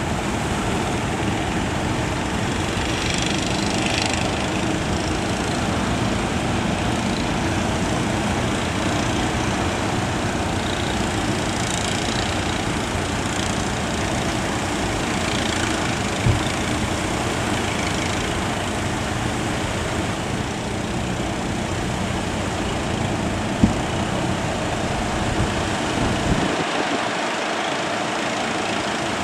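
Fishing boat engines running steadily under a constant wash of surf and wind noise, with a couple of small knocks; the low rumble drops away briefly near the end.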